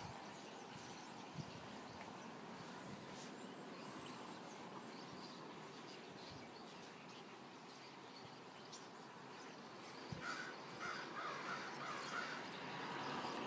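Faint bird calls over a steady outdoor background hiss, with a quick run of short calls in the last few seconds.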